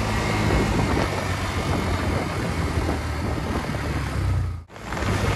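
Steady rumble of a moving road vehicle with wind on the microphone, broken by a brief drop-out about four and a half seconds in.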